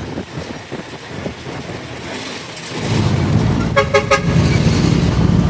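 Motorcycle engine and street traffic, the engine rumble growing louder about three seconds in as the bike pulls away. A vehicle horn gives a few quick toots about four seconds in.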